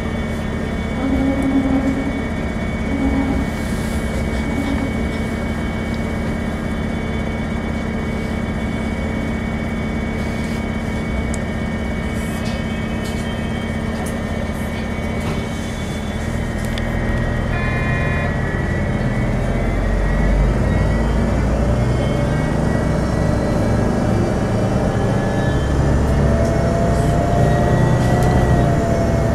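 Running noise of a moving passenger train heard from on board: a steady rumble with a constant whine. In the second half a deeper low rumble swells and grows louder as the train passes a standing Servtrans diesel-electric locomotive.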